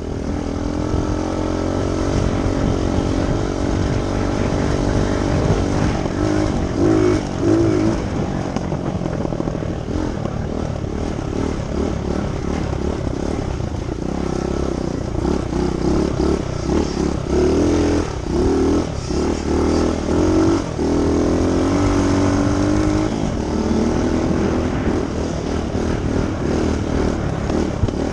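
Dirt bike engine running, with the throttle opened in several short revs that lift its pitch and drop back.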